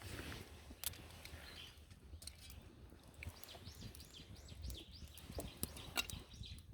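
Wood campfire crackling, with sharp irregular pops and snaps over a low rumble.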